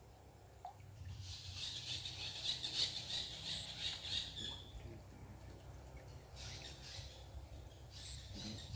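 Small birds chirping and twittering high and fast for a few seconds, starting about a second in, with shorter bursts of twittering later, over a faint low outdoor rumble.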